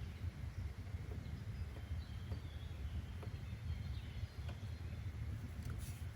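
Outdoor ambience: a steady low rumble with faint, short bird chirps now and then, and a couple of sharp ticks near the end.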